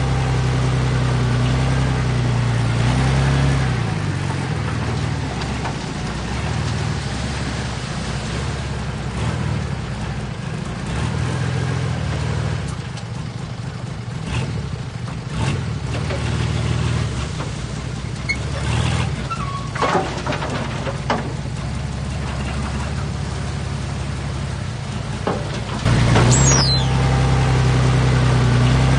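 Diesel engine of heavy earthmoving machinery running steadily, growing louder about 26 seconds in, with a short high falling squeal just after.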